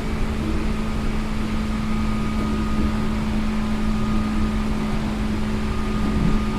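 Seibu New 2000 series field-chopper electric train running steadily at speed, heard from inside the car: a constant hum from the traction motors and gearing over the rumble of wheels on rail.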